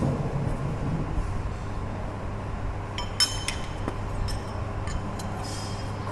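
Several sharp metallic clinks with a brief ringing, a cluster about three seconds in and a few more later, over a steady low hum.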